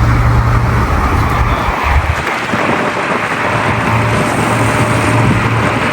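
Car driving at speed: steady rushing wind and road noise with a low engine drone underneath.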